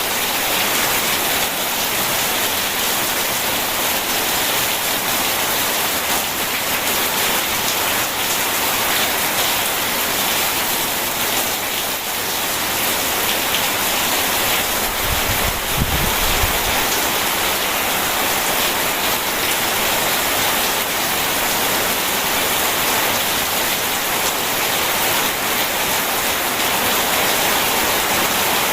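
Steady rain falling, an even hiss, with a brief low rumble of thunder about halfway through.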